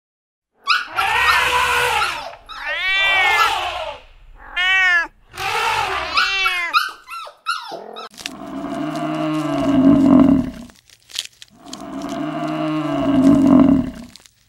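A run of about six short animal calls, each rising and falling in pitch. From about eight seconds in come two long, low cattle moos, each lasting over two seconds.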